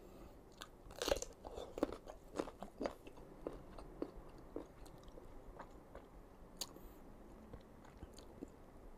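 Close-up eating sounds of crisp raw green mango: irregular crunchy bites and chewing, with the sharpest crunches about a second in and again near three seconds.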